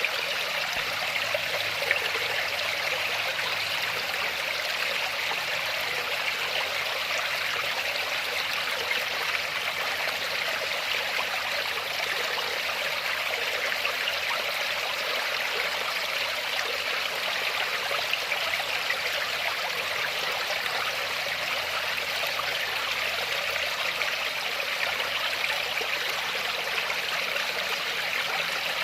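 Waterfall or fast stream: water rushing and splashing in a steady, unbroken hiss.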